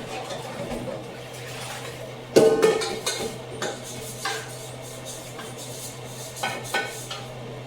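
Kitchen dishes and pans clattering: a few sharp knocks that ring on briefly, the first and loudest about two and a half seconds in, over a steady low hum.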